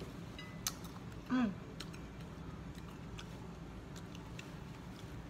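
A person chewing food close to the microphone, with a few faint wet mouth clicks. About a second in comes a short falling 'mm' hum from the eater, the loudest sound, over a steady low room hum.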